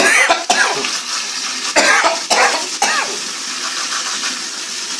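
Water running steadily from a hose through a gas water heater's heat-exchanger coil as it is flushed clean of carbon. A few short, loud bursts break in over the first three seconds, then the flow goes on evenly.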